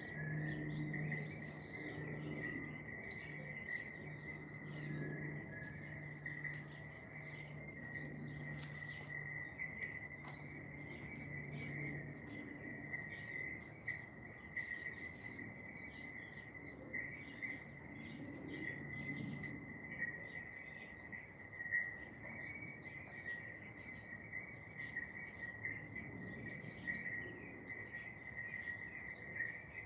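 Crickets trilling in one unbroken, steady high-pitched drone, with scattered short bird chirps and a few brief whistles over it.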